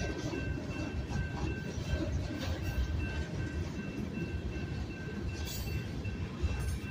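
Union Pacific manifest freight train creeping slowly past, coil cars and tank cars rumbling and clanking over the rails. The grade-crossing bell rings steadily in a quick, even pattern over the rumble.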